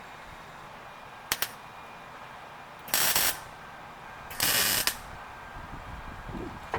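A welder striking two short crackling welds, each about half a second long, roughly a second and a half apart, like tack welds on exhaust pipe. A sharp double click comes just before them.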